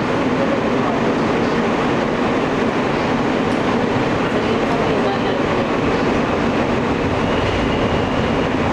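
An Alstom R160A subway car running through a tunnel at speed, heard from inside the car: a steady, loud rumble and rush of wheels on rail, with a faint high whine in the last couple of seconds.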